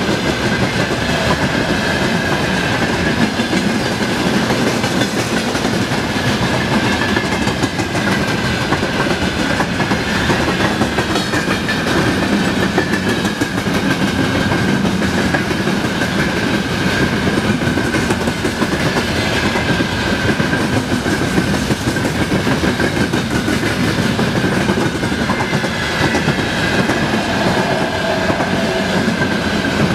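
A train rolling past, its wheels clattering over the rails in a loud, steady run, with a thin high whine from the wheels held over it.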